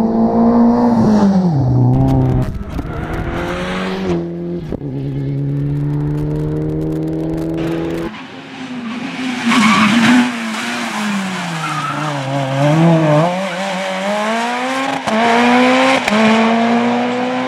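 Rally car engines run hard through a stage. The engine note drops as the car slows near the start, holds, then rises and falls with gear changes, with a burst of sharp crackles early on. The sound changes abruptly about halfway through, and a second car's engine dips low and climbs back up through quick upshifts near the end.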